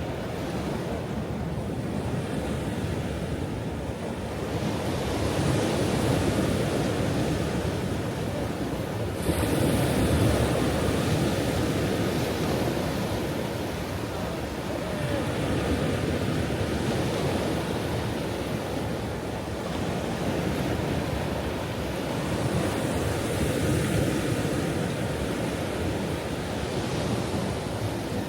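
Ocean surf: waves breaking and washing in a continuous rush that swells and eases every several seconds. The loudest wave breaks suddenly about nine seconds in.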